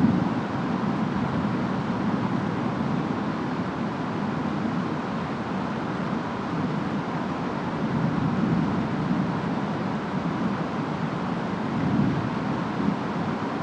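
Storm ambience: steady rain and wind noise, deep and even, swelling and easing a few times.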